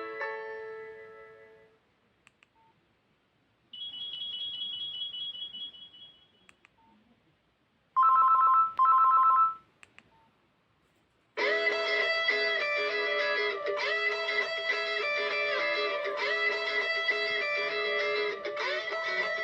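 A run of Nokia 3110 Classic ringtones and alert tones, one after another with short silent gaps. A melody fades out, then comes a high thin tone, then two short loud two-note beeps. From just past halfway a guitar-based music ringtone plays on.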